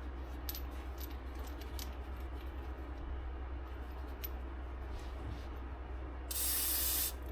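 A few light metallic clicks and clinks, then one short hiss from an aerosol spray can of rust-preventive spray, lasting under a second, near the end.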